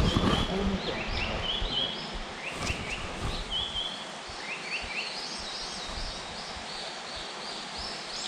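Japanese paradise flycatcher singing: a series of short whistled notes that come more steadily in the second half. A low rumble of handling or footsteps is heard in the first second.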